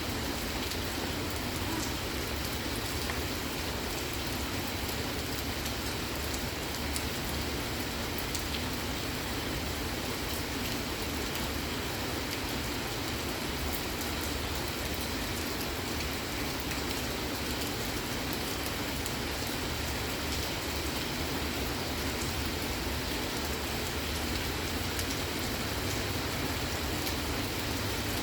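Steady rain falling, with a dense patter of individual drops; it neither builds nor eases.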